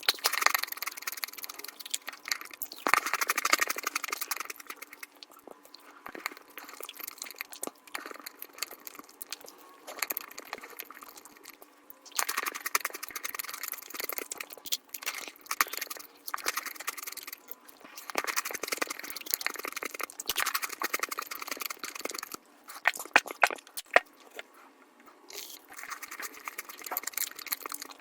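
Eating sounds sped up five times: rapid crunching, biting and chewing of chocolate, a dense run of clicks and crackles that comes in uneven bursts.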